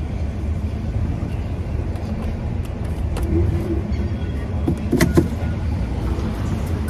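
Steady low rumble of motor vehicles, with a couple of short clicks about five seconds in.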